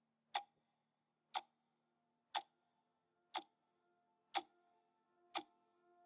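Clock-like ticking in the soundtrack, one sharp tick a second, six in all, over faint held notes.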